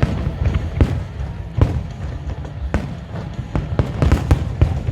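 Fireworks bursting overhead: a string of sharp bangs at irregular intervals, coming closer together about four seconds in, over a constant low rumble.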